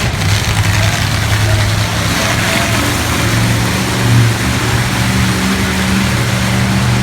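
Monster truck engine running loud, a steady low drone over a wide roar, swelling briefly in revs about four seconds in.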